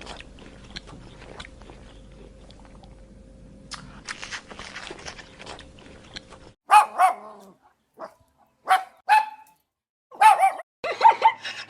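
A dog barking in a string of short, sharp barks that start a little over halfway through and come in quick groups. Before the barks there is crackling, rustling noise over a steady hum.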